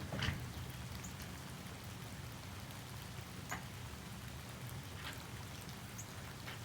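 Outdoor morning ambience: a steady low rumble under scattered drip-like ticks, about one every second or two, and a couple of very brief high chirps.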